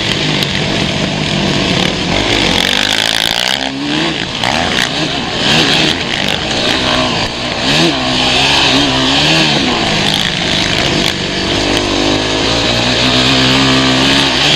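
Motocross motorcycle engines revving, their pitch climbing and dropping again and again as the throttle opens and closes.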